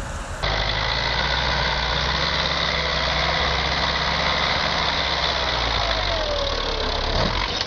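A heavy vehicle engine running steadily at a constant speed. It starts abruptly about half a second in.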